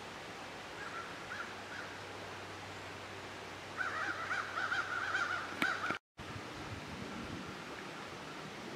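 A bird calling: two short calls about a second in, then a quick run of wavering, repeated notes for about two seconds, cut off abruptly about six seconds in.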